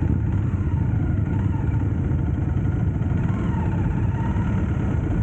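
Motorcycle on the move: its engine running steadily under a dense low rumble.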